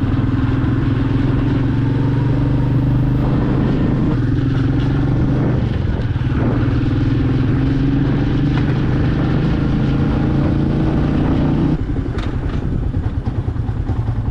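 Royal Enfield Meteor 350 single-cylinder engine running steadily under way, its even note dipping briefly twice. The steady note falls away about twelve seconds in, leaving a rougher, uneven engine sound.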